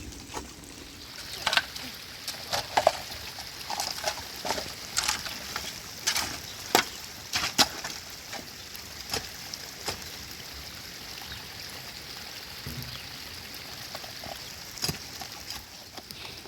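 Steady hiss of running water, with irregular sharp knocks and taps scattered through the first ten seconds or so.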